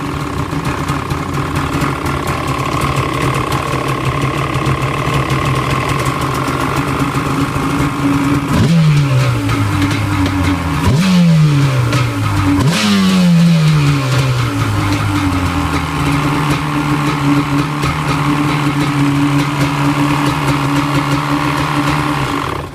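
Yamaha 700 engine idling steadily, with three quick throttle blips in the middle, the revs rising sharply and falling back to idle each time; the engine stops right at the end.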